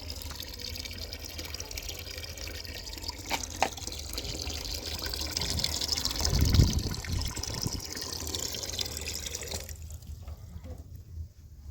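Water running steadily, cutting off about ten seconds in, with a dull low thump a little after the middle.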